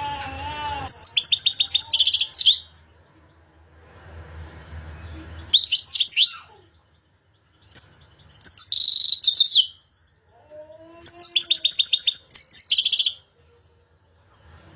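European goldfinch singing: four or five bursts of rapid, high twittering and trilled notes, each a second or so long, with short pauses between.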